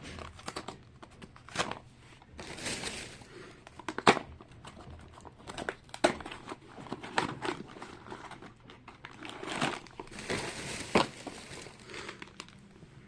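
Blind-box packaging being opened by hand: plastic and cardboard crinkling and tearing, with scattered sharp clicks and snaps and two longer rustling bursts, one a few seconds in and one near the end.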